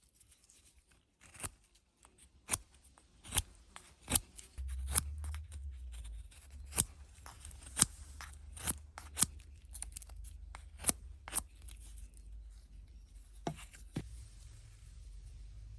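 Irregular sharp clicks and snaps, roughly one a second, over a low rumble that comes in about five seconds in.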